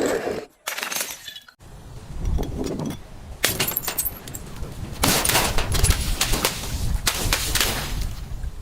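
Glass bottle breaking and being crushed: sharp cracks near the start, then dense crunching and crackling of glass over a low rumble that begins about a second and a half in.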